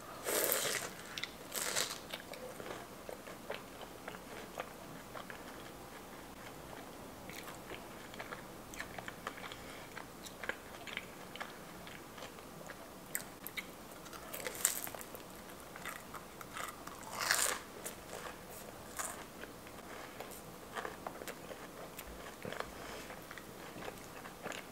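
Close-miked biting and chewing of a fried peach mango pie. It opens with two crisp crunching bites in the first couple of seconds, followed by quieter, steady chewing with small crackles and mouth clicks. A few louder crunches come about two thirds of the way through.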